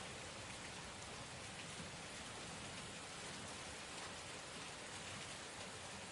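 Heavy rain falling steadily, an even hiss of drops on a surface with no thunder.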